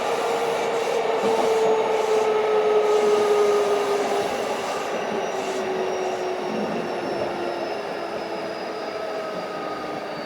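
Keikyu 1500 series field-chopper train running: a whine from the traction motors and gears falls slowly in pitch over the rumble of the wheels on the rails. The sound eases off from about four seconds in as the train slows.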